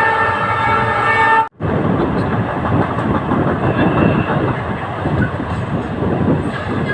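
A train horn sounds a steady, held note that cuts off suddenly about a second and a half in. After that come the rumble and rattle of a passenger coach running along the track.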